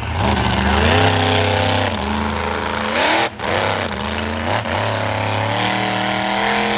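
Monster truck engine running hard, the revs climbing and dropping again four or five times as the throttle is worked.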